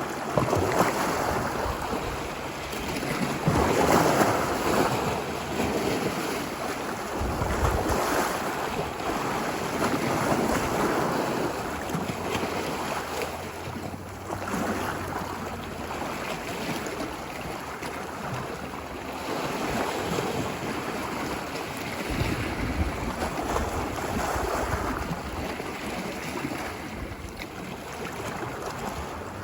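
Ocean waves breaking and washing up a beach, the surf noise swelling and ebbing every few seconds. Wind rumbles on the microphone now and then.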